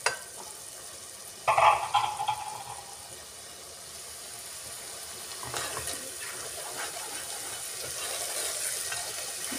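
Tomato masala frying in oil in a non-stick kadhai, a soft sizzle that slowly grows louder, with a short clatter of a utensil about a second and a half in and another around six seconds in, and ladle stirring near the end. The oil is separating from the masala, the sign that it is fully fried.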